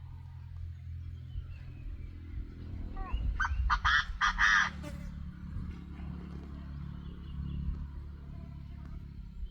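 Duck calls: a quick run of about five loud, harsh calls a little after three seconds in, over a steady low rumble.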